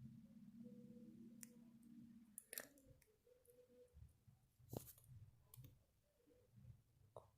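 Near silence with a faint low hum for the first two seconds or so, then a few scattered faint clicks and knocks.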